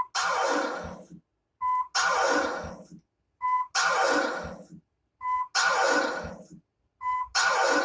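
Scratch record played back: a short beep tone followed by a long vocal "ahh" sample that fades and drops in pitch, repeating about every two seconds, five times.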